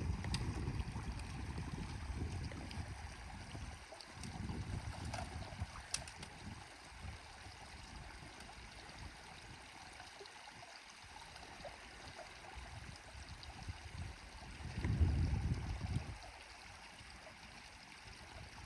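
Wind gusting against the microphone outdoors: a low rumble that swells near the start, again about four seconds in, and most strongly around fifteen seconds in, over a faint steady hiss.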